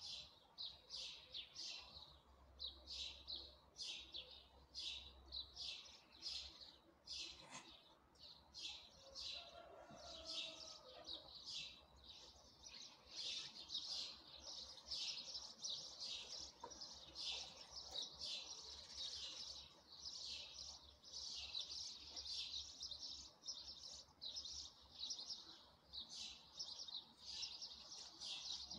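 Small birds chirping in quick, high, repeated notes, about two a second at first, growing denser and nearly continuous from about halfway through.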